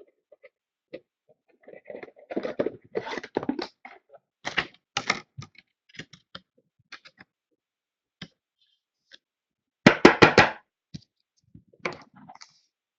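Trading cards and plastic card holders being handled: scattered light clicks and rustles, with a quick run of sharper clicks about ten seconds in.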